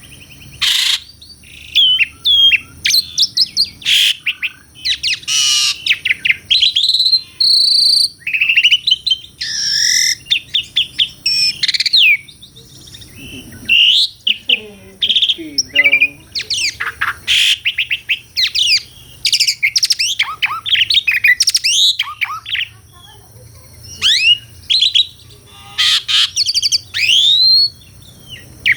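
Asian pied starling (jalak suren) singing: bursts of varied whistles, chirps and quick sweeping notes broken by short pauses, with a lower, harsher phrase about halfway through.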